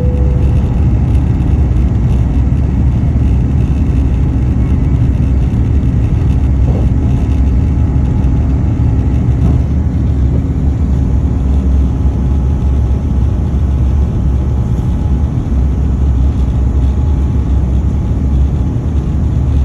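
Airbus A350 jet engines at take-off power heard from inside the passenger cabin: a loud, steady deep rumble with airflow noise. A faint hum underneath fades out about two-thirds of the way through.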